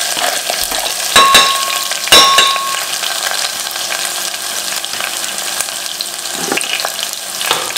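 Chopped onions, green chillies and curry leaves sizzling steadily in hot coconut oil in a steel pressure cooker. Two sharp metallic clinks ring out about one and two seconds in.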